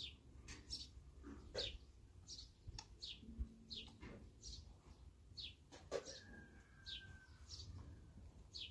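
A bird chirping over and over: short, high, falling chirps, about one every second or less, faint throughout.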